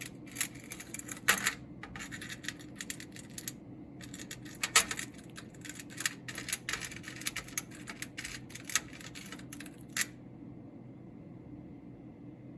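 Small pet bird pecking and scratching, a run of irregular sharp clicks and taps that stops suddenly about ten seconds in.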